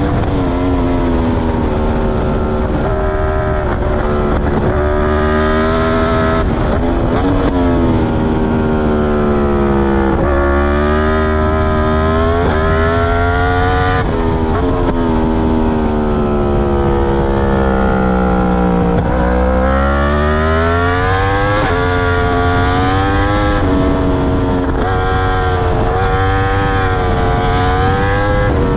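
2021 Yamaha R1's crossplane inline-four engine, through an Akrapovic full titanium exhaust with its dB killer fitted, at track speed: the pitch climbs and drops again and again as it revs through the gears, with long falls off the throttle into corners and hard pulls back up.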